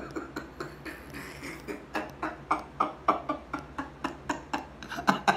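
A person chewing food close to the microphone: a run of short mouth clicks and smacks, about four a second.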